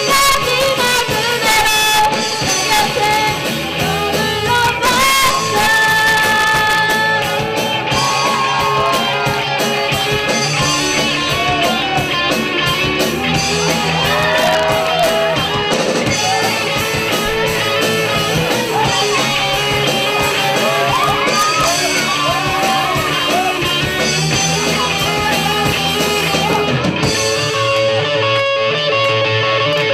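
A band playing a pop-rock song with a lead singer, guitar and drums. Near the end the singing stops and the guitar carries on.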